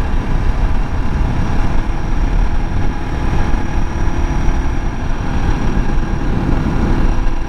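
Suzuki DR650's single-cylinder engine running steadily while the motorcycle is ridden.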